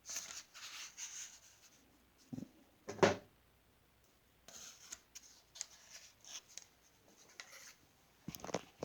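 Handling noises: irregular rustling and scraping, with a louder knock about three seconds in and another near the end.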